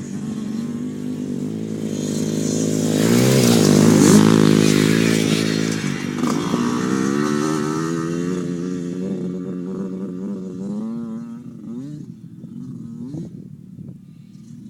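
Dirt bike engine revving as it rides up close and past, loudest about four seconds in, then dropping in pitch and fading as it rides away, with a few short blips of the throttle near the end.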